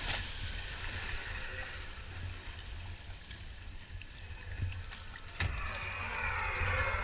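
Rushing water and low wind rumble on the microphone aboard a river rapids ride boat, with a sharp knock about five seconds in, then people's voices near the end.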